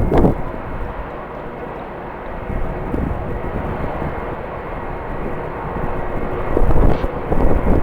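Jet airliner engines running across the airfield, a steady noise with a faint whine, broken by gusts of strong wind buffeting the microphone at the start and again near the end.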